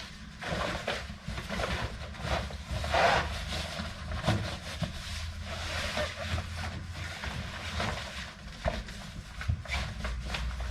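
Irregular rustling and light knocks of a fabric car boot liner being handled and spread out in a car's boot, over a steady low rumble.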